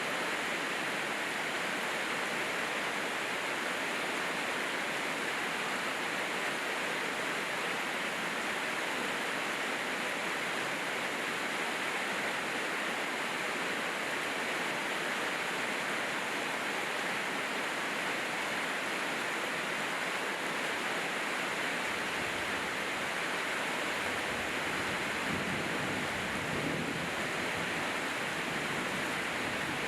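Steady heavy rainfall, an even hiss that holds at one level throughout. A faint low rumble swells briefly about two-thirds of the way through.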